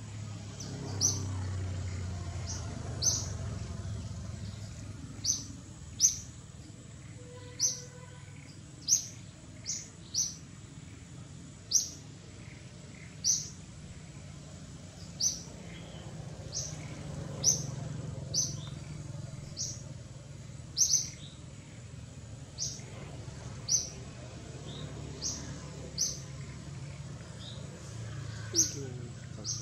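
A bird repeating one short, high, sharp chirp about every second or so, over a low steady background rumble.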